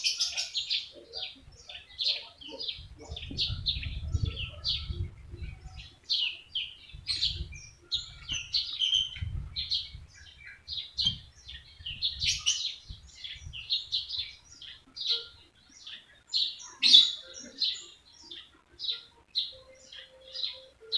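A pet talking bird chirping steadily in a long run of short, high chirps, two or three a second.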